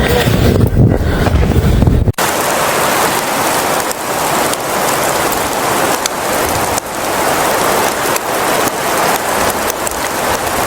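A low rumble of wind on the microphone for about two seconds, then an abrupt cut to a steady hiss of falling precipitation with scattered light ticks, as of rain or sleet striking surfaces in a winter storm.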